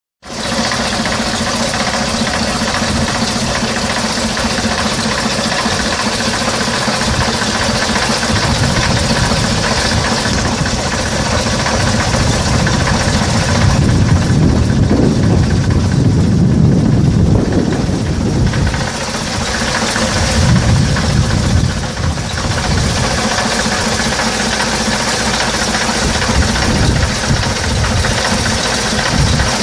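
Old London RTL/RTW bus's Leyland O.600 six-cylinder diesel engine running at idle with a steady knocking clatter. The low rumble grows heavier for a few seconds about halfway through, and again briefly a little later.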